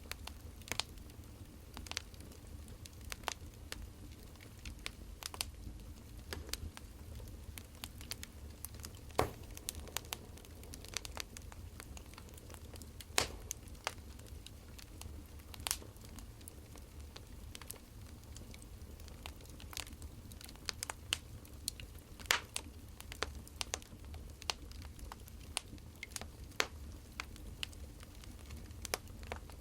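Burning firewood crackling: irregular sharp pops, a few louder than the rest, over a low steady rumble.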